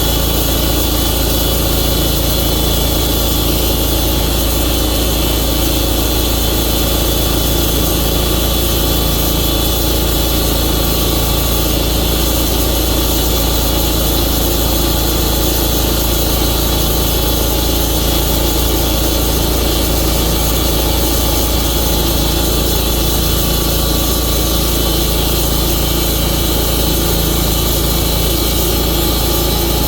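Tru-Cut sawmill's engine running steadily under load through a long cut.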